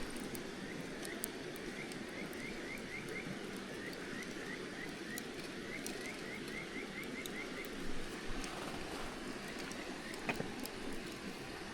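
Outdoor background: a steady rush of noise, with a run of short rising chirps from a calling animal, two or three a second, that stops a little past the middle, and a few faint clicks.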